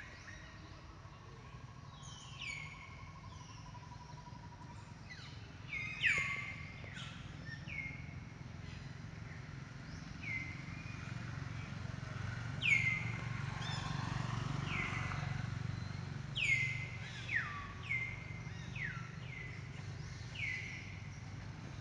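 Birds calling: short calls that each sweep quickly down in pitch, repeated in loose runs throughout, over a steady low rumble of background noise that swells mid-way.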